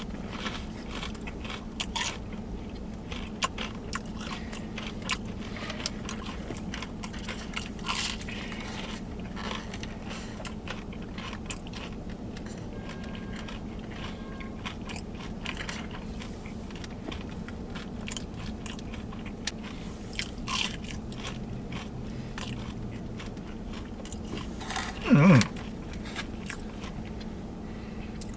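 Close-up chewing and crunching of fried catfish in a crisp hush-puppy-style batter, irregular crunchy bites over a steady low hum. A short vocal sound falling in pitch near the end.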